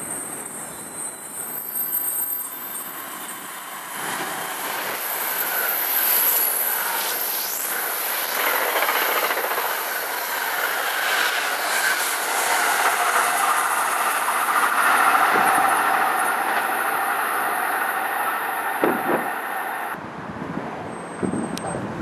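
Electric passenger train approaching and then passing close at speed: a steady rush of steel wheels on rail that builds to its loudest as the cars go by, then cuts off sharply about 20 seconds in.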